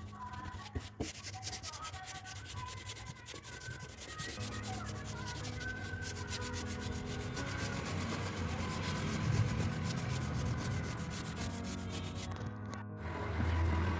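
Rapid repeated rubbing strokes of a cloth scrubbing the painted metal fridge door, wiping off stray paint with turpentine, over quiet background music.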